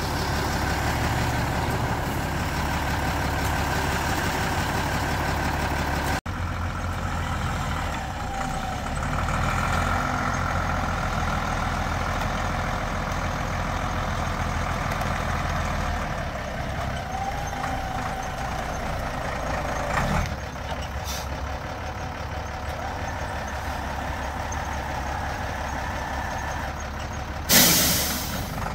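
A vehicle's engine running steadily with a low rumble, broken by an abrupt cut about six seconds in. Near the end comes a short, loud hiss.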